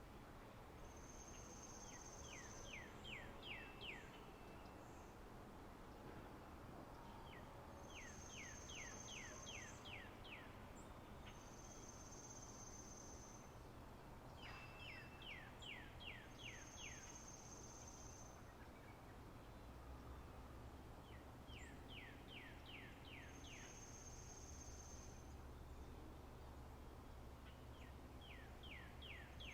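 Songbirds singing in a spring-meadow nature ambience. Every few seconds there is a steady high whistle and a quick run of six to eight short down-slurred notes, over a faint background hiss.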